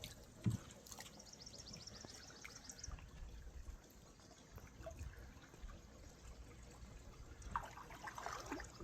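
Faint trickling water, with a single soft knock about half a second in.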